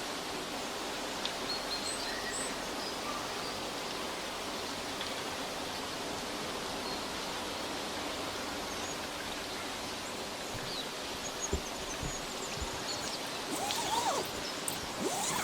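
Outdoor forest ambience: a steady rushing hiss with faint, scattered bird chirps. In the last couple of seconds a few short calls that slide up and down in pitch come in, together with low knocks.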